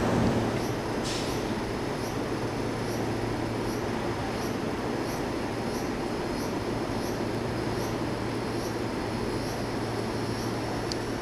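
Seibu electric train running, a steady rumble and low hum with faint high ticks about twice a second.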